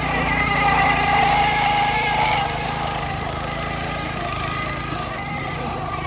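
Minibike's small engine held at high revs during a burnout, a steady high-pitched whine that is loudest in the first two seconds and then holds level.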